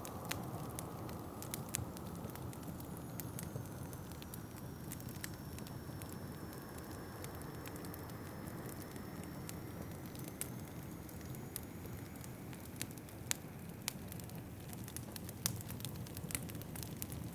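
Wood fire crackling and popping in a fireplace, with sharp snaps scattered throughout over a steady rush of wind howling outside.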